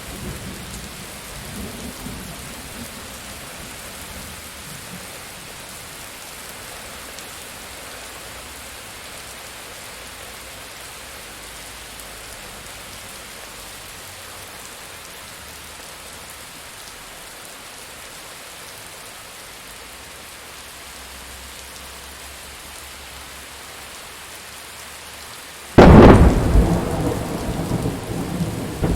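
Steady rain falling, then about 26 seconds in a sudden loud, close thunderclap that rumbles on and slowly fades.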